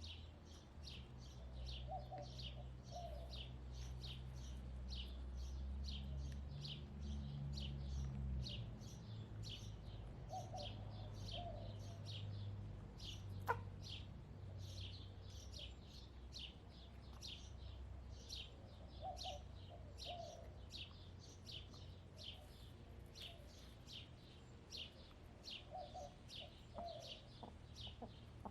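Backyard hens clucking softly in short pairs every several seconds, over fast, steady wild bird chirping and a low rumble, with a single sharp click about halfway through.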